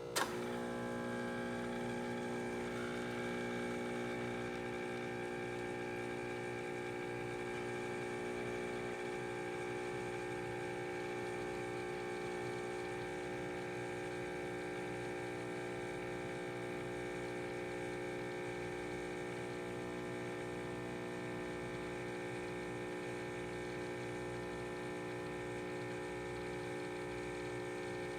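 De'Longhi EAM4500 Perfecta automatic espresso machine running with a steady electrical hum, after a click as it starts.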